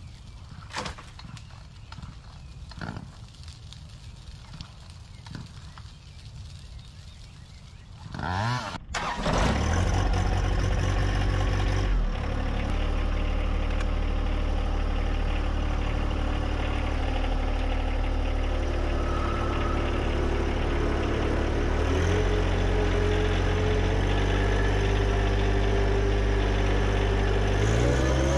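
John Deere 1025R compact tractor's three-cylinder diesel engine starting about eight seconds in, then running steadily, its pitch rising near the end.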